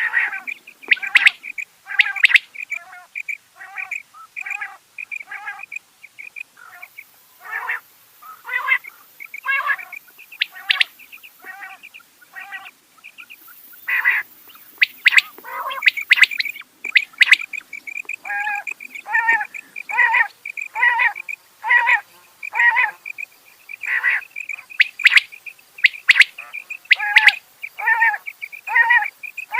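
Rain quail calling: short, sharp notes repeated in quick series, about one to two a second, with a few louder, sharper notes among them.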